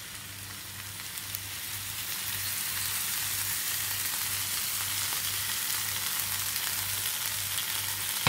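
Mutton liver fry sizzling in a hot frying pan, the sizzle growing louder from about two seconds in as lemon juice is squeezed onto it.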